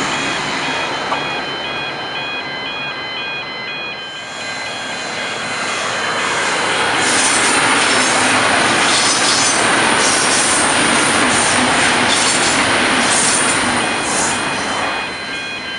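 A train passing over the level crossing: its wheel and rail noise swells from about four seconds in, is loudest through the middle with high wheel squeals, and fades near the end. The crossing's electronic bell rings in an even repeating pattern, heard plainly at the start and again as the train noise fades.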